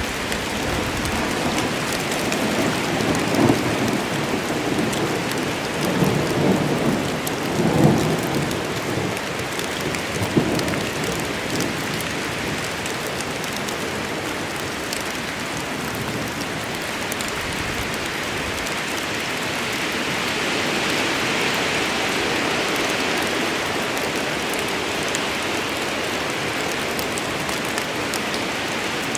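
Steady heavy rain in a forest with rolling thunder rumbling low in the first half.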